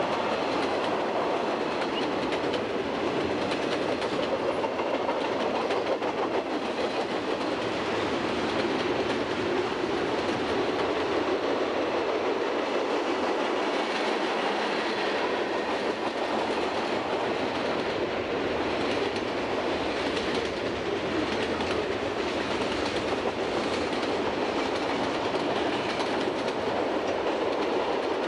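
Freight train cars rolling past steadily on the rails.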